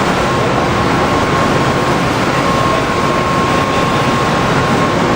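Steady machinery noise from standing rail equipment: a continuous rush with a steady high whine.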